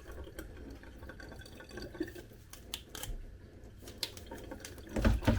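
Water dripping and trickling in a sink, with light clicks as plastic dishwasher filter parts are handled, and a louder knock near the end.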